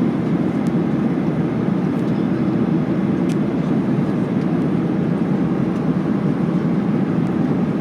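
Steady cabin roar of a Boeing 737-800 in cruise, heard from an economy seat: a constant rush of engine and airflow noise.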